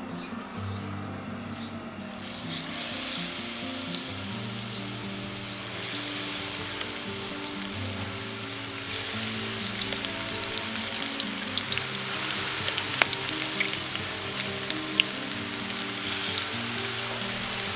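Battered onion rings deep-frying in hot canola oil: a steady sizzle that rises sharply about two seconds in, with a few sharp pops.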